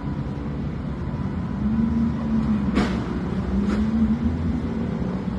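Motorboat engine running at low speed while the boat is being manoeuvred, its pitch rising and falling slightly. Two short clicks come less than a second apart about three seconds in.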